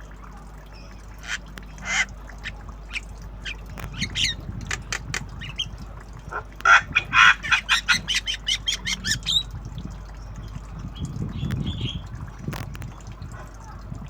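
Javan myna giving short, harsh calls: scattered single calls at first, then a quick run of about a dozen in the middle, fading near the end. It is a young bird still learning its sounds.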